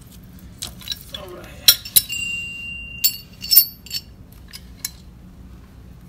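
Metal hand tools clinking and knocking together as they are handled, a few sharp hits, one leaving a short ringing tone about two seconds in.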